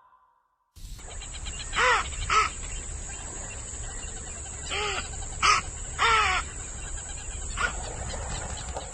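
An animal giving short calls that rise and fall in pitch, six of them, mostly in pairs, over a steady high-pitched background tone.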